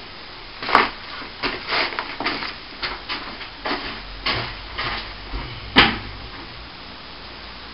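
Irregular scrapes and knocks of plastering tools and gear being handled, about a dozen short strokes, with one sharp knock a little before six seconds in.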